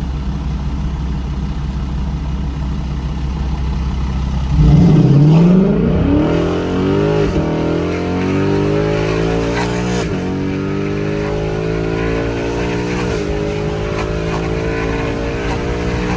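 2018 Mustang GT's 5.0-litre V8 running through an exhaust with both mufflers removed and a resonator delete. It holds a steady low note, then a few seconds in goes to full throttle, the pitch climbing and dropping back at each quick gear change.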